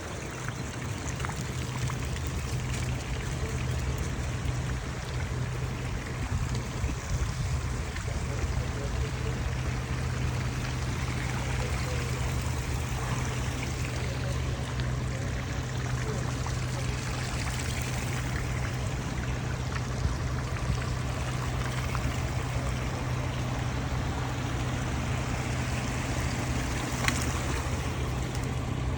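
Steady rush of floodwater over a continuous low engine hum.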